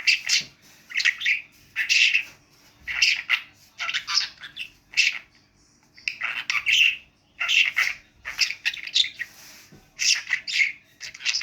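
Pet budgerigar chattering in a quick string of short, shrill bursts, the scratchy warble a talking budgie uses when mimicking words.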